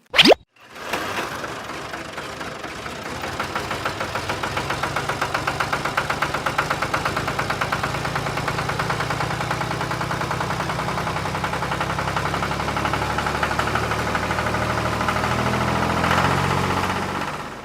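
Small engine running with a fast, even knock. It starts about a second in, grows louder and holds steady, then fades out near the end.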